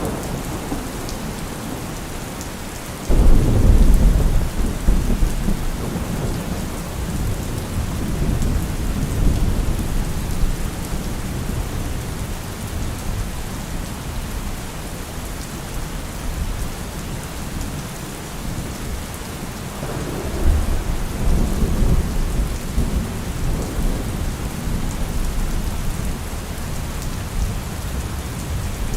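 Heavy rain falling steadily, an even hiss. Two deep rumbles rise out of it: a loud one that starts suddenly about three seconds in and fades over several seconds, and a softer one about twenty seconds in.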